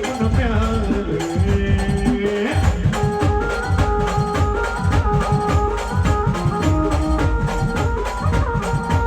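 Brass band playing an instrumental passage: a melody of held notes over a fast, steady drum beat.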